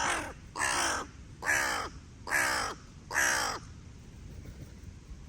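Crow cawing: a run of five caws about 0.8 s apart, each falling in pitch, stopping about three and a half seconds in.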